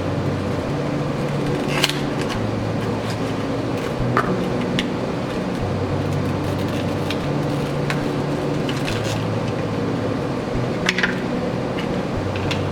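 LED bulbs being unpacked: scattered clicks, scrapes and crinkles of the packaging over a steady low hum.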